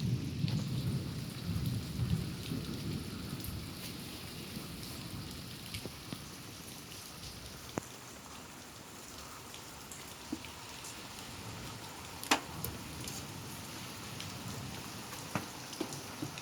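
Thunder rumble fading away over the first few seconds, then steady rain with a few sharp taps of drops landing.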